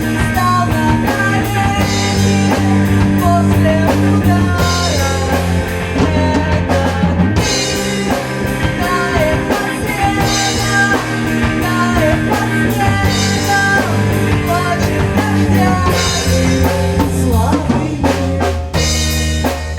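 Rock music with drum kit, bass and guitar playing a steady groove. Low bass notes change every couple of seconds, and cymbal hits recur at an even pace.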